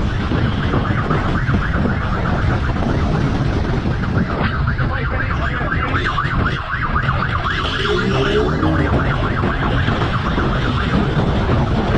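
An emergency-vehicle siren sounding over loud, steady vehicle and road noise. A rising engine-like pitch comes in about eight seconds in.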